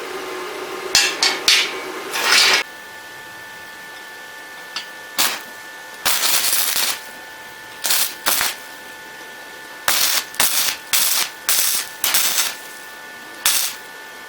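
Gasless flux-core MIG welder laying a series of short tack welds: about a dozen bursts of arc crackle, each under a second, with a steady machine hum behind them.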